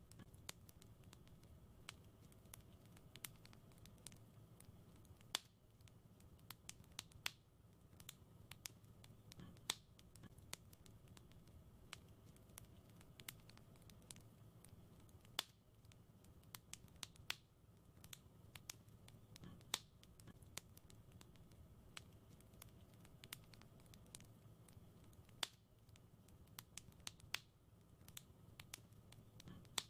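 Wood fire crackling: irregular sharp pops and snaps, a few louder ones every several seconds, over a faint low hum.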